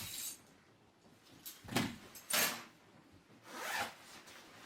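About four brief rubbing and scuffing noises from someone moving about and handling things inside a wooden cabin.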